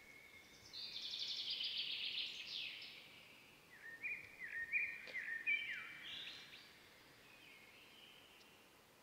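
Songbirds singing: a fast, high trill lasting about two seconds, then a run of short chirping notes with quick downward slides, over a faint background hiss.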